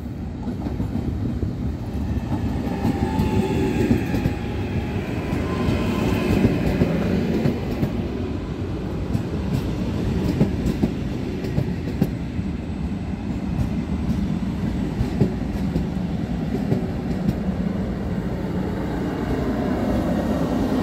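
Trenitalia ETR 521 'Rock' double-deck electric regional train running past along the platform: a steady rumble with the wheels clicking over rail joints and a faint high whine that slides in pitch.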